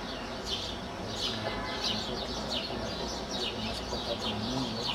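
Small birds chirping: short, high, falling chirps repeated a few times a second, over a steady low background rumble.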